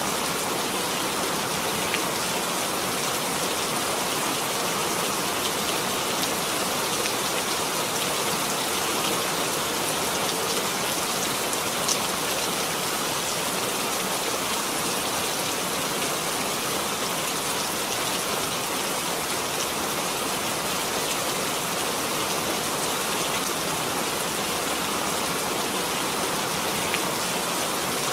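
Steady rain falling and pattering on a surface, an even hiss with a few drops landing distinctly now and then.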